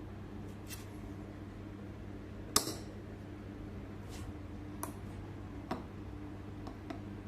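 Scattered light clicks and knocks of small tools or parts being handled, one sharp louder click about two and a half seconds in, over a steady low hum.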